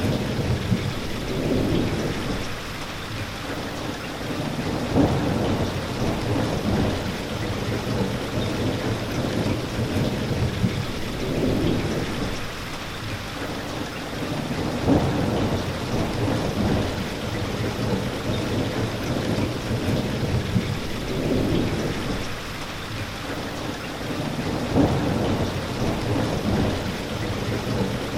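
Steady rain falling, with low thunder rumbles swelling and fading several times beneath it.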